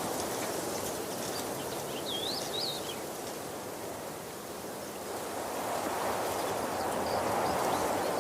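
Waterfall rushing in a steady wash of water noise that eases a little midway and swells again. A bird gives a short chirping call about two seconds in.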